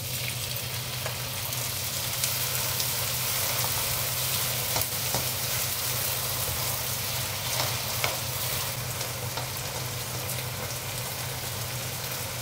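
Diced tomatoes sizzling in hot oil in a nonstick wok, on top of sautéed onion and garlic. The sizzle jumps up right at the start as they go in, with a spatula stirring and clicking against the pan a few times.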